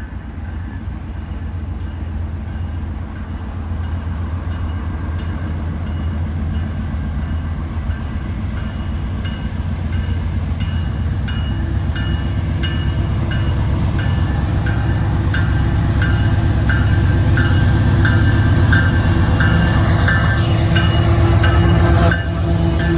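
A CPKC train coming closer, its heavy low rumble growing steadily louder, with a regular series of short, high pings over it that come faster later on.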